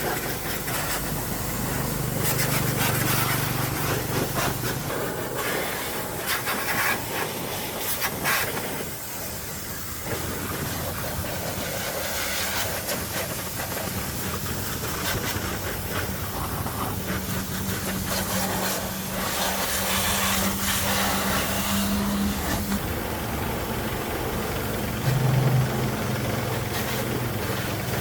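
Small engine running under a steady hiss, its pitch stepping up briefly a few times.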